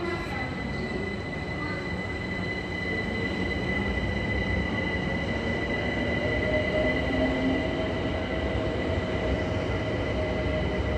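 A train moving along the platform, with the rumble of its wheels and a steady high-pitched whine or squeal; a lower steady tone joins about halfway through as the sound grows slightly louder.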